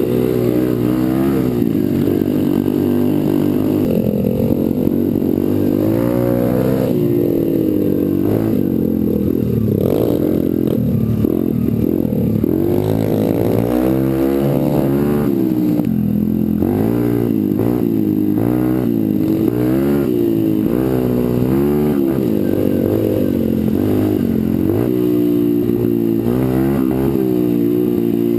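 Pit bike's small single-cylinder engine being ridden hard, its revs climbing and dropping again and again.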